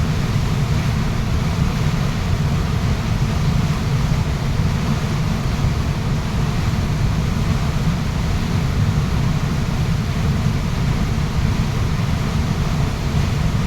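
A waterfall's water rushing steadily, a continuous deep rush with no breaks.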